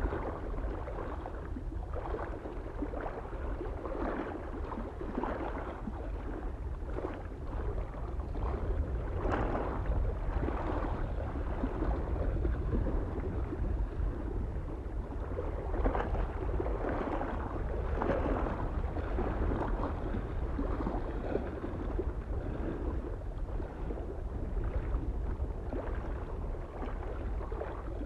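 Small waves lapping against a lake shore in an irregular run of splashes and gurgles, over a steady low rumble of wind.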